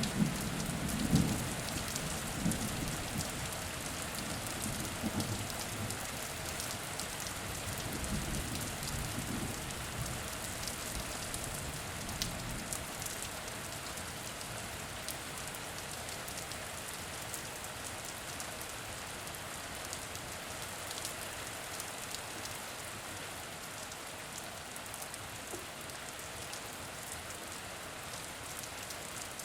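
Steady rain falling, a dense hiss of drops with small individual patters. A low rumble of thunder dies away over the first several seconds.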